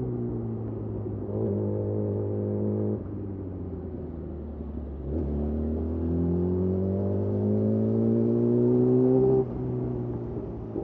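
Yamaha YZF R6 inline-four running through a de-catted Akrapovic slip-on exhaust while riding. The engine note falls off at first, then from about five seconds in rises steadily under acceleration, and drops sharply near the end.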